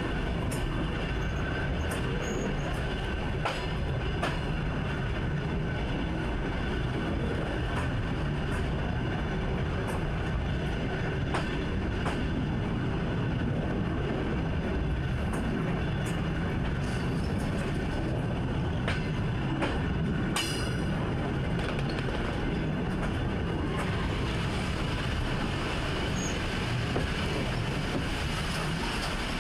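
Electric train running along the track, heard from inside the driver's cab: a steady rumble with scattered sharp clicks and a thin, steady high squeal from the wheels.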